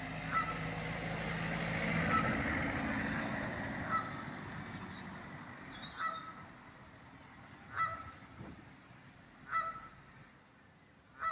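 A bird calling over and over, one short sharp call roughly every two seconds. Under the first few calls a passing vehicle's engine noise swells and then fades away.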